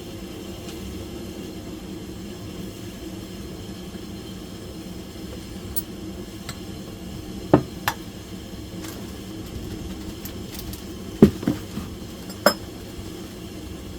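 A handful of sharp metallic clinks and knocks from metal parts or tools being handled, bunched in the second half, over a steady low hum.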